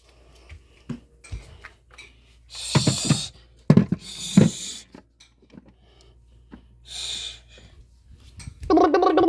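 Light clicks and clatter with several short hissing bursts. Near the end, a child's voice starts a steady buzzing engine noise made with the lips.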